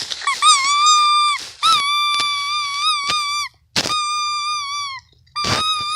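A dog whining in a string of high, drawn-out cries, about four of them, each held about a second with a small bend at the start and a drop at the end, with a few sharp clicks between.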